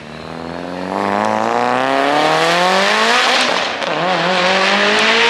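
A performance car accelerating hard, its engine note climbing steadily in pitch. About four seconds in the revs drop briefly for an upshift, then climb again.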